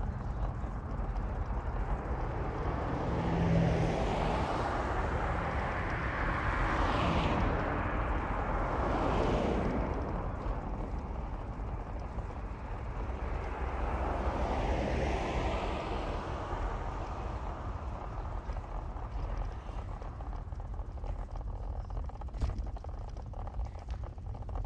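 Road traffic heard during a drive: a steady low rumble of vehicle and road noise, with two other vehicles swelling up and fading away as they pass, the first about five to ten seconds in and the second a little later.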